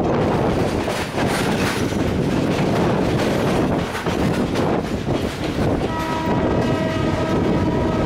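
Sri Lankan M5c diesel train running along the rails with a steady rumble, its horn sounding one held note for about two seconds near the end.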